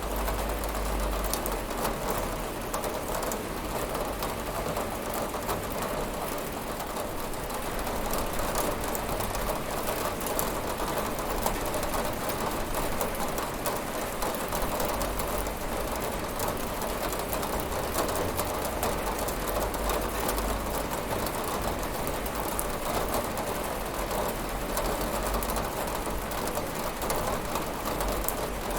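Steady rain pattering on a window, a constant hiss of drops with many small taps and no thunder.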